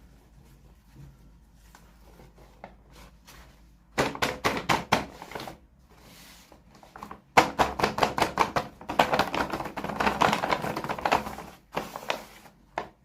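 Rapid clicking and crackling of packaging being handled and opened, in runs of a second or several seconds after a quiet start.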